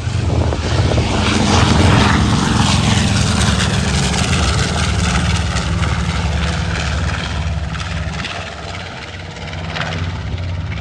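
B-25J Mitchell's two Wright R-2600 fourteen-cylinder radial engines running at high power, as for the takeoff run. The sound is loudest about two seconds in, then slowly eases off.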